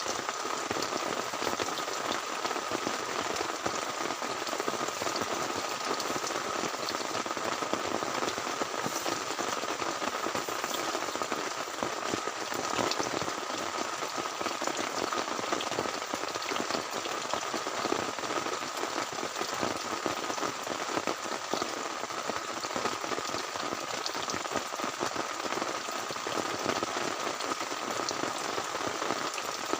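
Heavy rain falling steadily, a dense, even hiss full of fine drop ticks.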